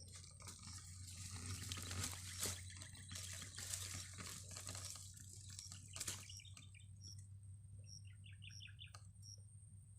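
Outdoor ambience with crackling patter and scattered clicks in the first half and a steady high whine throughout. About eight seconds in, a bird gives a short call of about six quick repeated notes.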